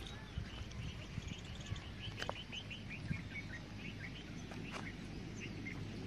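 A bird singing a rapid run of short, high chirps, with a steady low background hum of outdoor noise beneath and a few faint clicks.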